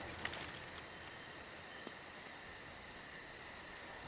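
Crickets chirping steadily, a fast even pulse of high chirps.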